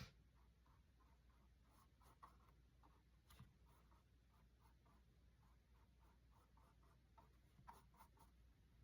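Faint, quick strokes of a paintbrush on a canvas, a few a second, with an occasional light tap.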